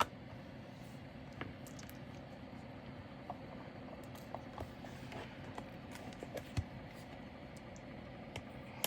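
Scattered light clicks and ticks from handling small plastic pieces, diamond painting drills and their storage containers, over a steady low background hum.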